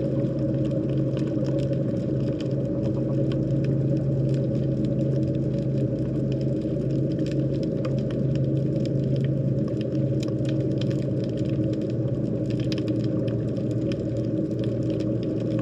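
Underwater sea noise: a steady low hum holding a constant low tone, with scattered faint clicks above it.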